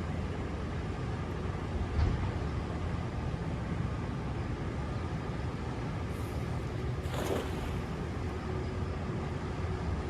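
Steady low outdoor rumble, with a single knock about two seconds in and a brief hiss around seven seconds.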